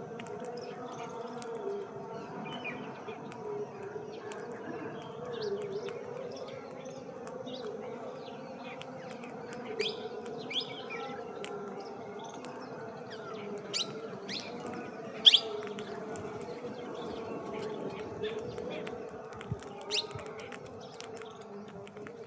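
Birds giving many short, sharp chirps throughout, the loudest about two-thirds of the way through, over a steady hum.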